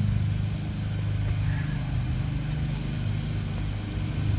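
A steady low mechanical hum, like an engine or motor running without change.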